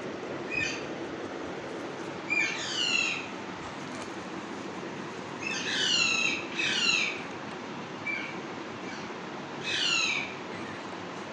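Parrot giving four harsh, downward-sliding calls, each under a second long, with two short chirps between them, over a steady low hum.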